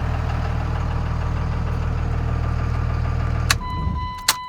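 VP44-injected 5.9 Cummins turbo-diesel idling steadily and evenly, then shut off about three and a half seconds in. A click follows and a steady electronic warning chime starts sounding, with another sharp click near the end.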